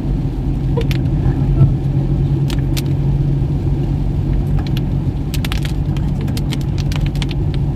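Toyota Fortuner driving: a steady low engine and road rumble with a constant hum, and scattered sharp ticks, more of them in the second half.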